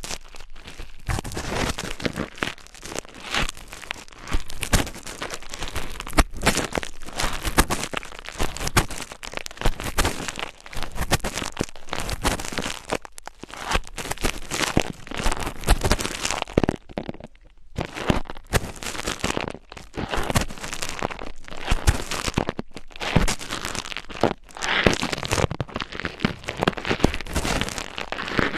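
Close-microphone ASMR scratching and crinkling: a dense run of rapid crackles and scratches, with two brief pauses.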